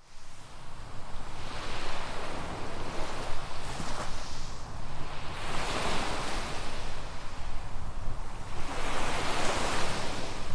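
Sea waves washing onto a sandy beach, surging and falling back three times, a few seconds apart.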